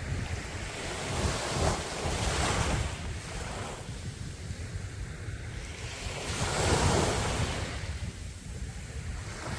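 Sea waves breaking on a beach, two swells of surf about five seconds apart, with a low rumble of wind on the microphone.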